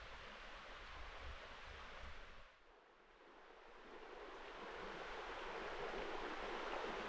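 Steady rushing of a flowing river. It drops away sharply about two and a half seconds in, then builds back up louder.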